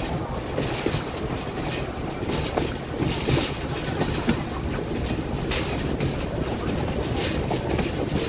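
Passenger train cars running on the rails, heard through an open window of a moving car: a steady rumble and rushing noise with irregular clacks from the wheels.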